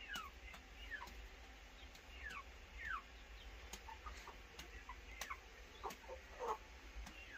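A bird calling off camera: short falling notes repeated every half second to a second, with a few lower, louder ones about six seconds in. A few faint clicks sound among them.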